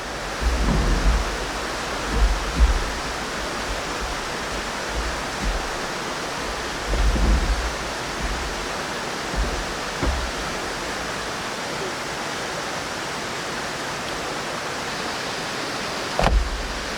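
Steady rush of a valley stream flowing close by, with a few short low thumps scattered through it.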